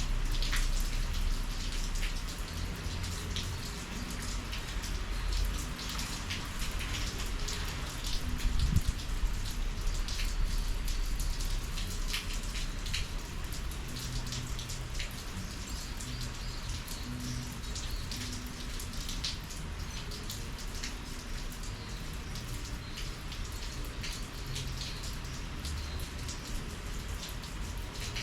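Steady summer rain, with many individual drops striking close by in a continuous patter over a low rumble. A single louder knock about nine seconds in.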